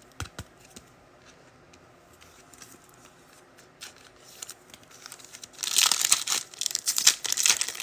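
Foil trading card pack wrapper being torn open and crinkled. A few light clicks of handling come first, then loud, dense crinkling starts about five and a half seconds in.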